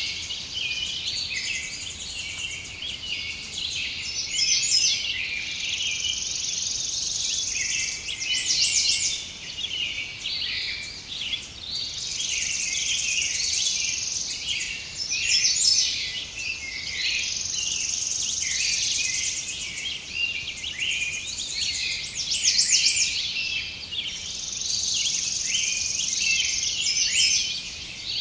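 Many birds chirping and singing at once, with a high, steady buzzing trill that comes and goes every few seconds.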